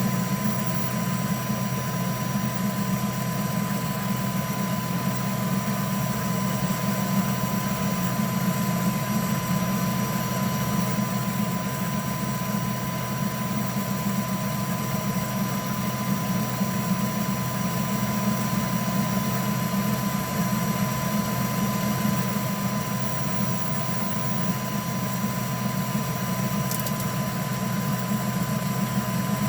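3D printer running, a steady machine hum with a constant high whine and no change in rhythm. A faint tick near the end.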